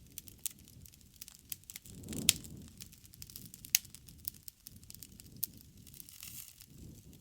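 Wood fire crackling in a fireplace: irregular sharp pops and snaps over the low rumble of the flames, with two louder pops a little over two seconds in and near the four-second mark.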